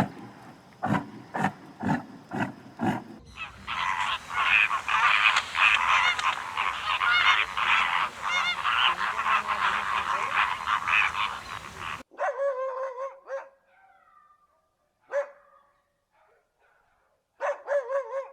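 Animal calls: a run of short separate calls, then from about three seconds in a dense chorus of many animals calling at once. About two-thirds of the way through it cuts off abruptly to a few separate pitched calls with silent gaps between them.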